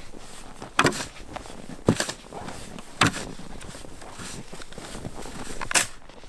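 Four short, sharp knocks or crunches: three about a second apart, then one more near the end, over a steady hiss.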